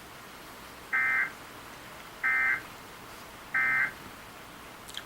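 Three short, identical electronic data bursts about a second apart from an Emergency Alert System broadcast: the warbling end-of-message code that closes a tornado warning.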